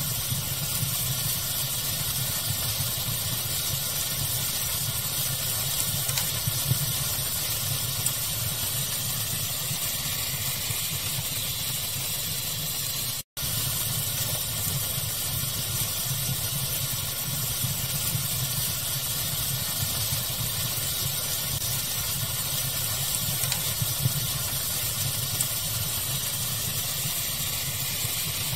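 Steady pink-noise hiss layered with fire crackling, a few sharp crackle pops standing out now and then. The sound cuts out for an instant about thirteen seconds in.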